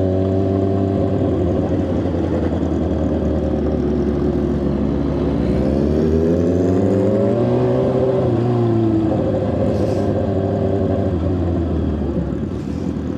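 Motorcycle engine running at a steady pitch, then revving up for about three seconds before the pitch drops back and steadies again.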